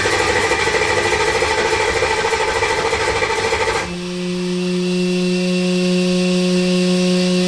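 The Drag Pak 354's V8 engine running rough and loud with a rattling, jackhammer-like chatter. About four seconds in, the sound switches abruptly to a steady, even-pitched hum that does not rise or fall.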